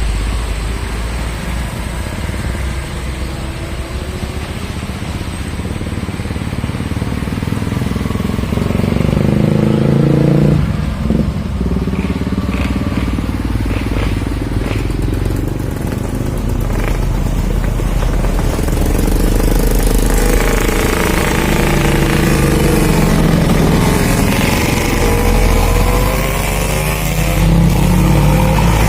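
Motorcycle engine running and changing speed, its pitch rising and falling several times, over a steady low rumble.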